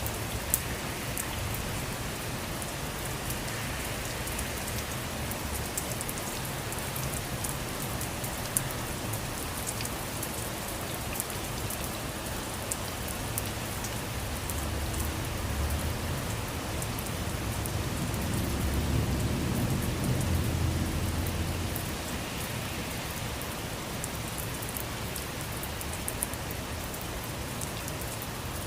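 Steady rain falling on a surface, with scattered sharp ticks of individual drops. A low rumble swells and fades about two-thirds of the way through.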